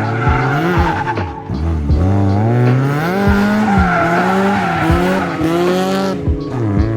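A car drifting: its engine revving up and down over and over, the revs dropping sharply many times, with tires squealing.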